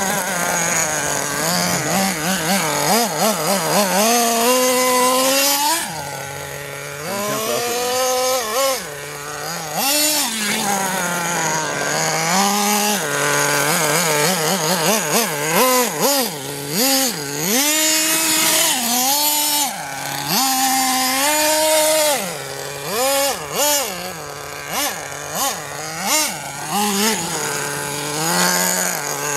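The small nitro engine of a Redcat Avalanche XP RC truck, revving up and down over and over as the throttle is blipped, its pitch rising and falling every second or two.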